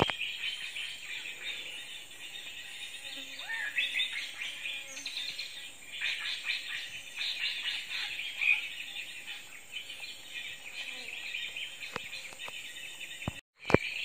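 Birds chirping and calling in a dense, unbroken chatter of quick high notes, with a few louder calls standing out.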